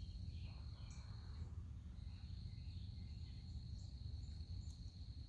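A faint, steady, high-pitched insect trill, like crickets, that breaks off briefly about one and a half seconds in, over a low background rumble.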